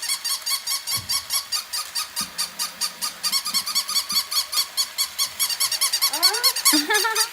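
A fast, even train of high squeaks, about nine a second, from battery-operated toy puppies. A short rising voice-like whine comes near the end.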